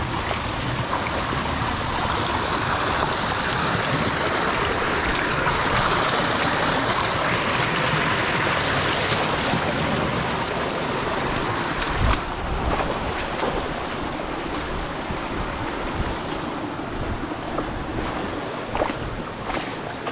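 Rushing, splashing water of a shallow mountain stream, a steady wash that grows a little louder over the first half. About twelve seconds in there is a single knock, after which the water is quieter.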